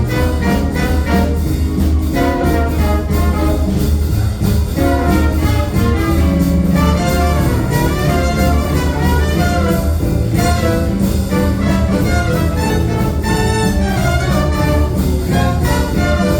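Live jazz band playing a tune at full ensemble.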